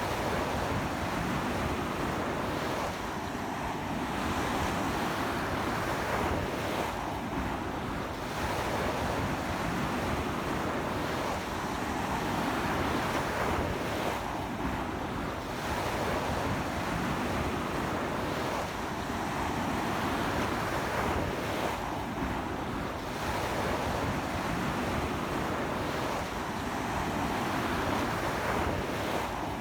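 Surf breaking on a sandy beach in a strong sea wind: a continuous wash of waves that swells and eases every few seconds.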